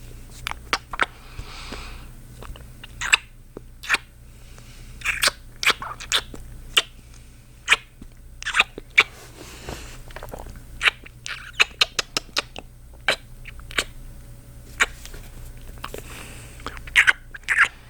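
Close-miked ASMR kissing sounds from a man's lips: irregular wet smacks and pops, sometimes in quick flurries, with soft breathy stretches between them.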